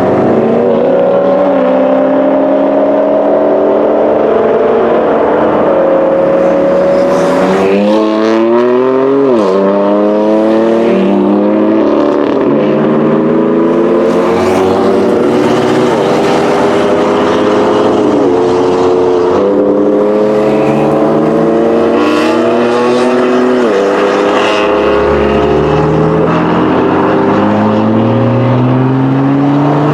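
BMW engine accelerating hard through the gears: its pitch climbs steadily, then drops sharply at each upshift, several times over.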